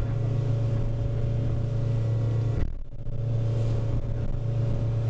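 A small boat's engine running steadily under way, with a deep, even hum. The hum dips briefly about two and a half seconds in.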